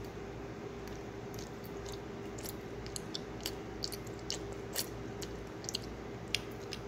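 Someone chewing a soft, sticky homemade gummy candy: an irregular run of small wet mouth clicks, the sharpest near the end.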